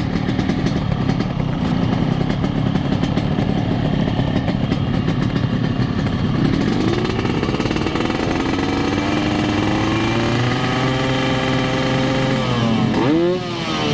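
Motorcycle engines running at a standstill, among them a Yamaha RX King two-stroke. From about halfway an engine's pitch climbs slowly under throttle, and near the end there is a quick throttle blip: a dip, then a sharp rise.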